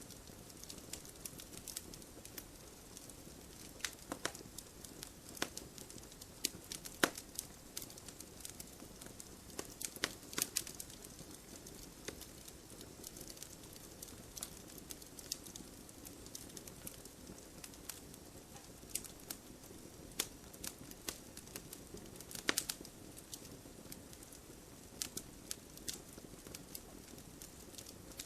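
Firewood burning in a wood stove, crackling: irregular sharp pops and snaps over a soft steady hiss of the flames, with a few louder snaps scattered through.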